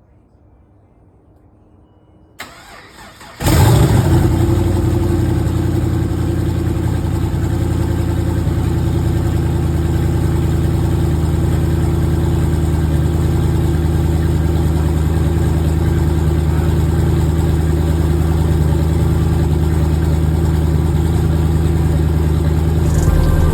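Twin-turbo LS V8 in a Pontiac G8, running on E85, cold-started after sitting for a week in freezing weather: the starter cranks for about a second, the engine catches about three and a half seconds in with a loud flare, then settles into a steady idle.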